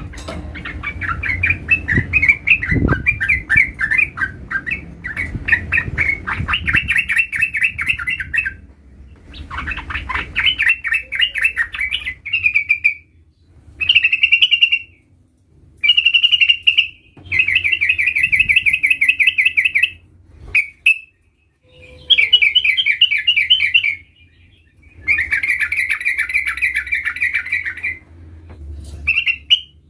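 Yellow-vented bulbul singing long, rapid rolling trills, phrase after phrase of one to several seconds, with short pauses between.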